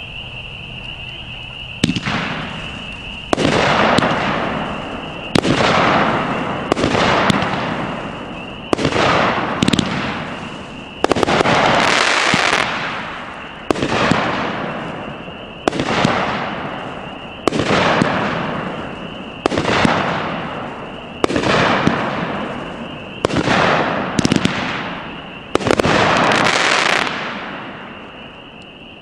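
Hardcore Pyro 'Pepperoni' firework cake firing its shots one after another, one every second or two, each a sharp report with a noisy tail that fades away; the volley stops about two seconds before the end. A steady high chirping of insects runs underneath.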